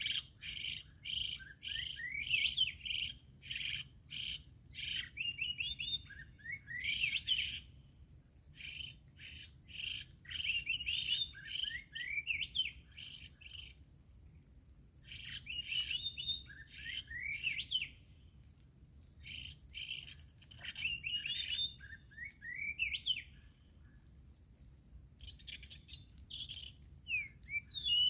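A songbird singing in repeated phrases of quick chirps and rising whistled notes, each phrase a second or two long with short pauses between, over a steady thin high tone.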